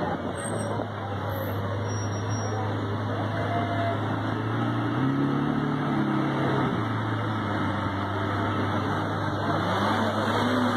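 Car engines idling in slow-moving street traffic as a steady low hum. About halfway through, one engine revs up briefly and settles back to idle.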